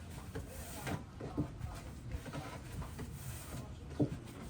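Faint scattered knocks and clatter of hands working with cookware and dough while kutab flatbread is prepared, with one sharper knock about four seconds in.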